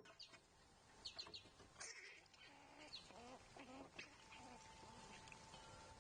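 Faint wild bird calls: several short high chirps, with a few lower, bending calls about three to four seconds in. A faint steady hum comes in near the end.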